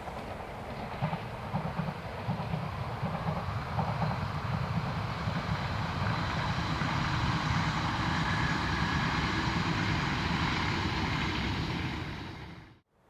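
E6 series Komachi mini-shinkansen train passing on the line, a steady rumble of wheels on rail with a few clicks in the first couple of seconds. It swells to its loudest about two-thirds of the way through, then fades and ends abruptly.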